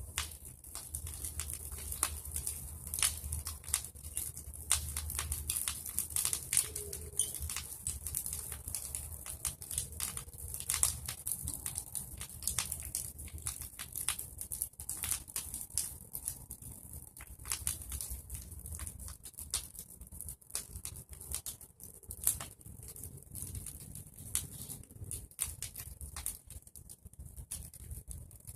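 Bonfire of pruned tree branches and leaves crackling and popping, with many irregular sharp snaps over a steady hiss of burning.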